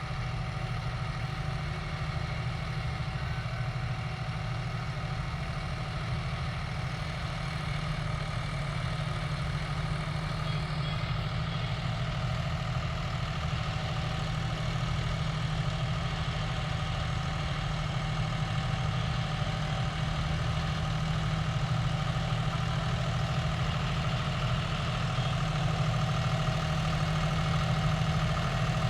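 John Deere 5210 GearPro tractor's diesel engine running steadily while driving an 8-foot super seeder, getting slightly louder near the end.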